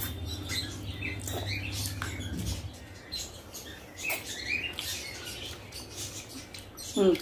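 Close-miked eating sounds: chewing and lip-smacking with many small wet clicks. A short voiced sound with a wavering pitch breaks in near the end, the loudest moment.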